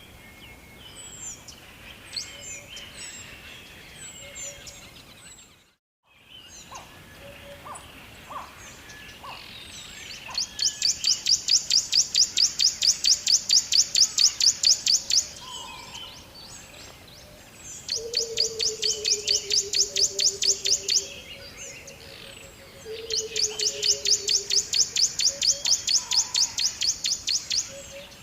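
Wild birdsong: scattered high chirps, then a bird singing a loud, fast trill of evenly repeated high notes, about six a second, three times, each trill lasting several seconds. A lower, slightly falling pulsed note sounds beneath the second and third trills. The sound drops out briefly about six seconds in.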